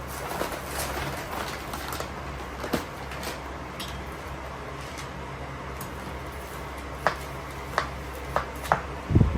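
A steady low hum with a few sharp clicks and knocks in the last few seconds, ending in a dull thump.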